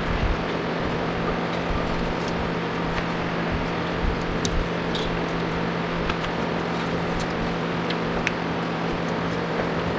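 Steady mechanical hum with a constant low tone, with scattered light clicks and taps.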